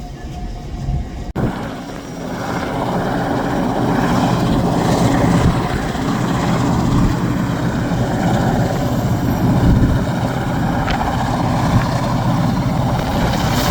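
Train running past: a steady rumble with a low diesel engine throb underneath, starting after a short break about a second in.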